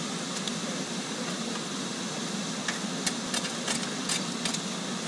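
Iron-melting furnace running with a steady rushing noise, with a few sharp clicks about three to four and a half seconds in.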